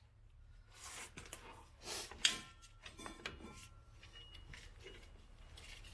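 Faint metallic clicks and rubbing of drum-brake hardware being handled as the star wheel adjuster is worked out, with one sharper click a little over two seconds in.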